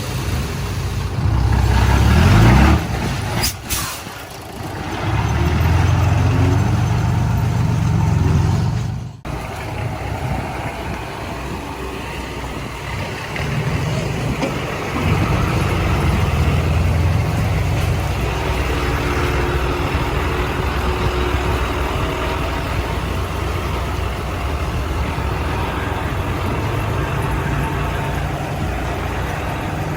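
Heavy diesel earthmoving machinery running, with the engine rising in pitch about two seconds in and a short hiss soon after. The sound breaks off abruptly about nine seconds in, then an engine runs steadily.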